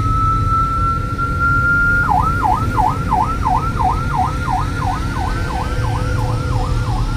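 Electronic siren sounding. It starts suddenly on a steady high tone for about two seconds, then switches to a rapid yelp that dips and rises in pitch about three times a second, over a low background rumble.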